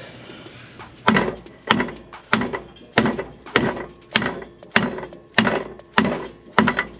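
Hammer striking a steel exhaust pipe about ten times at a steady pace, each blow with a short metallic ring, driving a tight pipe into its fitting.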